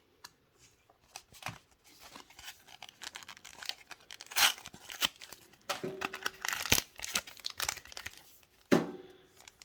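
Crinkling and rustling of thin plastic as a trading card is handled and slipped into a card sleeve, an irregular run of short rustles and rips, loudest about halfway through and near the end.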